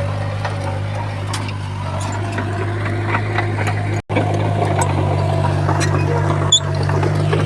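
Heavy diesel earthmoving machinery engine running steadily with a low drone, with scattered light clicks and knocks. The sound cuts out for a split second about four seconds in.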